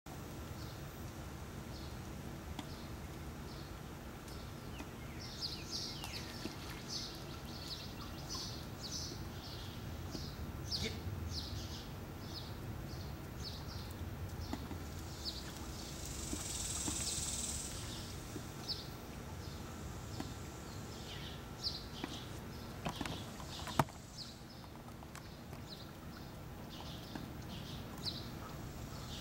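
A bird chirping over and over, short high chirps coming every half second or so. A hiss swells and fades just past the middle, and a single sharp knock sounds about four-fifths of the way in.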